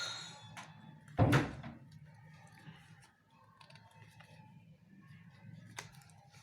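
Sheet of paper being handled and folded on a hard surface, with one loud thump about a second in and a sharp click near the end, over a low steady hum.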